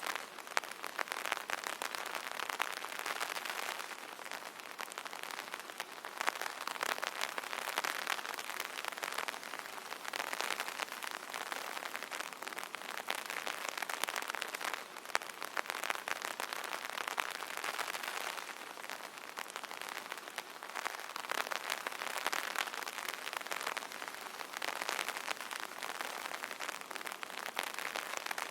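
Rain pattering on an umbrella canopy: a dense, steady patter of drops that swells and eases every few seconds.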